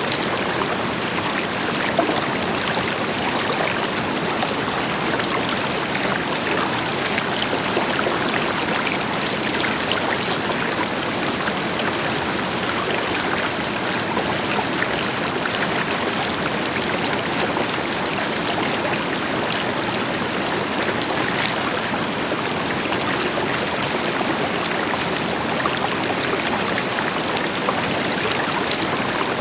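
River water flowing and splashing over stones, a steady rushing noise, with a waterfall's deeper rush in the background.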